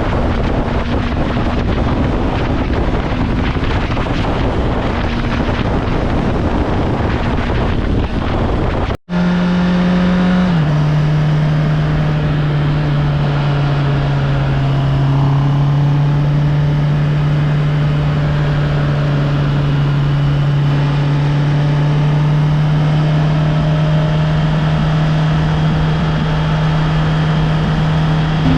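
Motorcycle riding at speed, picked up by a helmet-mounted GoPro Hero 13: at first heavy wind noise on the microphone drowns out a faint engine note. After a brief cut, the engine's steady hum comes through clearly over much less wind. Its pitch steps down once shortly after the cut.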